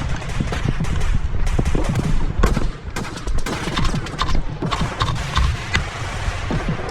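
Airsoft guns firing in a skirmish: irregular sharp shots, singly and in quick strings, over a steady low rumble.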